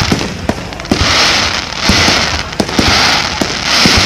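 Fireworks display: a string of sharp booms from bursting shells, overlaid by waves of dense crackling and hissing that each last about a second.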